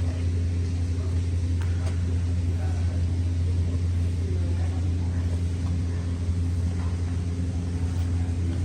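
A steady low hum or rumble that holds at one level throughout, with faint voices in the background.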